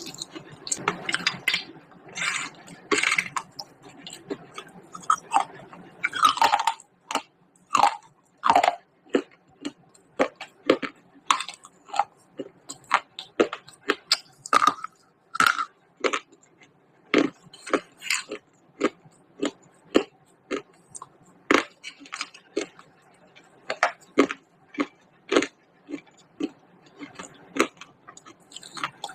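Pieces of baked clay pot crunching as a person bites and chews them: sharp, irregular crunches about one or two a second, denser in a few bursts.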